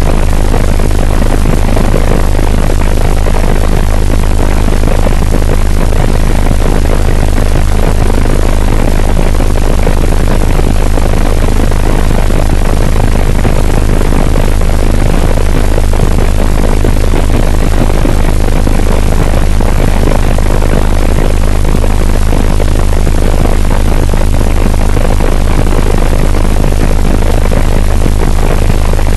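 Loud, steady helicopter noise heard from inside the cabin: rotor and turbine engine drone with a strong low hum beneath.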